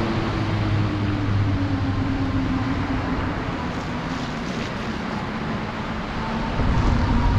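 Motor vehicle engine running as it drives along, a steady drone that grows louder about six and a half seconds in.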